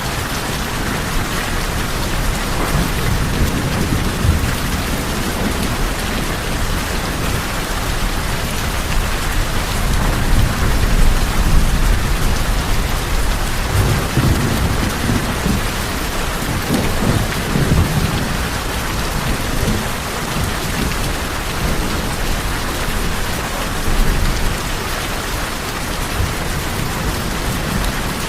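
Steady heavy rain drumming on tin roofs, with low rolling thunder rumbling several times, swelling loudest a little before the middle and again past the middle.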